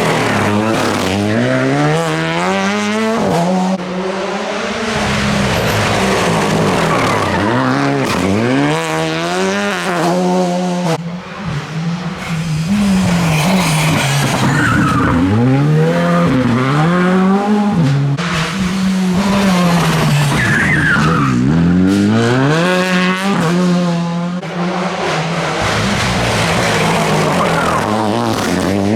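Rally car engines revving hard, the pitch climbing and then dropping again and again with each gear change and lift, with tyres skidding and squealing.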